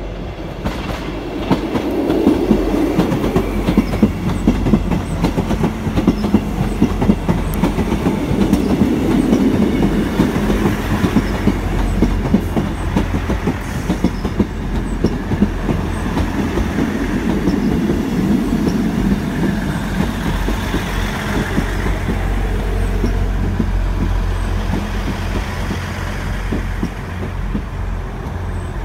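South Western Railway Class 159 diesel multiple unit running along the platform, with a steady low rumble from its underfloor diesel engines and its wheels clicking over the rail joints.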